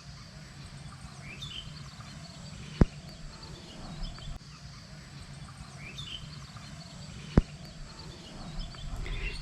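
Quiet outdoor ambience: a steady faint high insect hum with a few short bird chirps. Two sharp clicks, about four and a half seconds apart, stand out as the loudest sounds.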